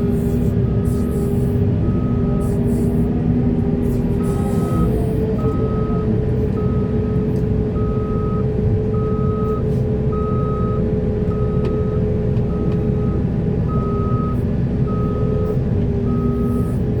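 Backup alarm of a heavy earthmoving machine beeping about once a second over a steady diesel engine drone. The machine is reversing, and the beeping pauses briefly a few seconds in.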